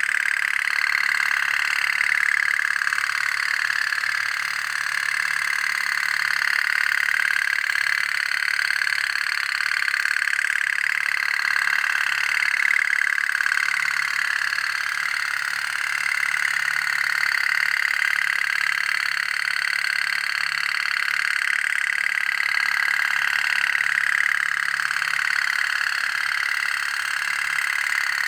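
Toy pop-pop (otok-otok) boat running: a steady, continuous putt-putt from its small steam boiler, holding an even level throughout.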